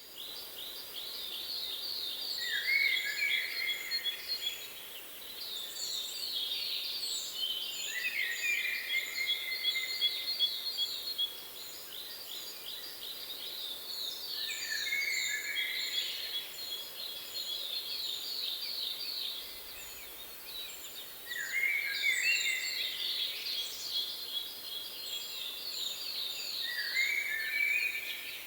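Birds singing: fast, repeated trills of high notes, with lower sliding phrases breaking in every few seconds, over a steady background hiss.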